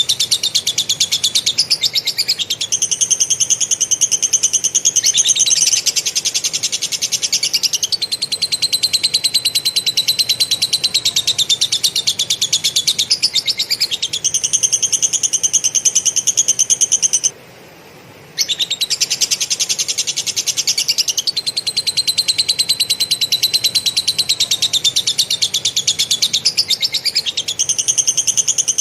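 A caged songbird delivering a very fast, dense chattering trill of lovebird-style 'ngekek' material. It comes in long phrases that switch between a higher and a lower pitch, with one break of about a second a little past the middle.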